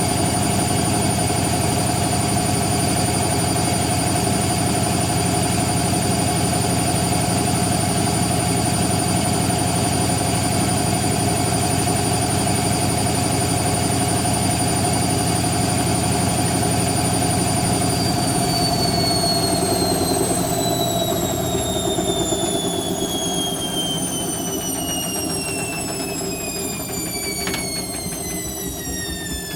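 Hoover Quattro AE130 washing machine spinning at speed with a steady motor whine. About 18 seconds in, the drum starts to slow down and the whine falls steadily in pitch as the spin winds down.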